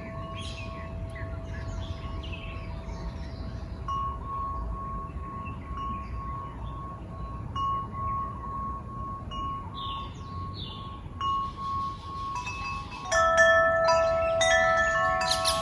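Wind chimes ringing softly in long sustained tones, then struck harder about thirteen seconds in, several notes ringing together and louder.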